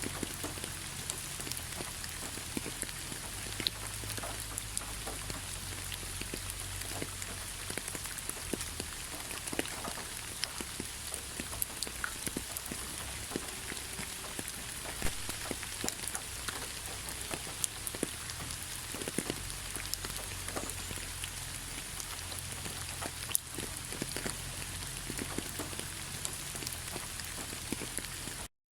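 Heavy rain falling: a steady hiss with many separate drop impacts ticking through it and a low rumble underneath. It cuts out for a split second near the end.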